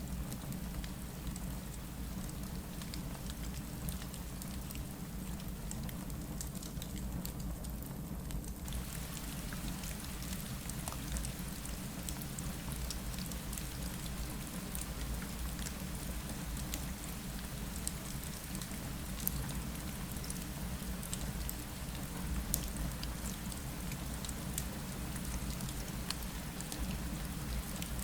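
Steady rain on a window, with scattered sharp ticks of single drops over a low rumble. The hiss of the rain gets brighter and fuller about nine seconds in.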